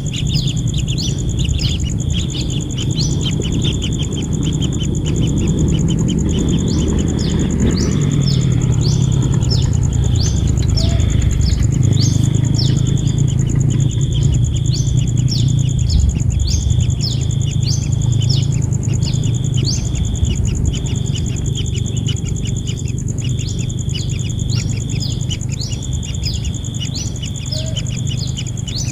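Kingfisher nestlings calling: a rapid, continuous run of short falling chirps over a steady high insect-like drone, with low rumbling noise beneath.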